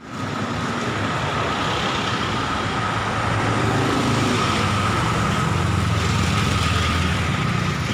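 Heavy rain hissing steadily, with a vehicle engine running underneath that changes pitch a little midway.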